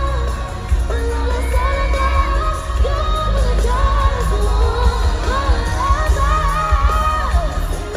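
Live pop music at an arena concert: a female lead vocal sings wordless runs and held notes over heavy, booming bass. Faint crowd noise lies underneath.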